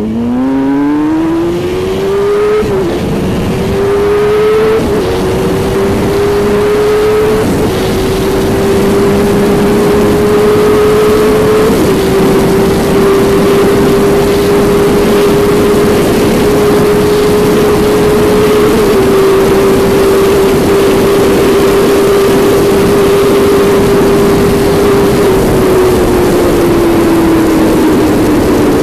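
Suzuki GSX-R1000 K8's inline-four engine accelerating hard, its pitch climbing and dropping briefly at each of five upshifts. Each gear pulls longer than the last, with wind noise building as speed rises. The revs then hold nearly steady near top speed and fall away smoothly near the end as it slows.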